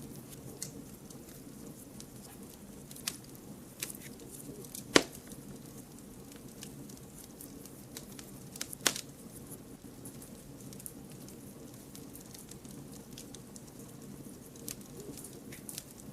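Wood fire burning with a steady low rush and constant small crackles, broken by louder pops, the sharpest about five seconds in and another near nine seconds.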